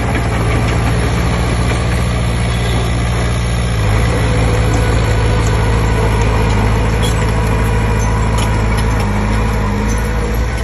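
Komatsu D20P bulldozer's diesel engine running steadily. Its note steps up slightly about four seconds in, and a few faint clicks sound over it.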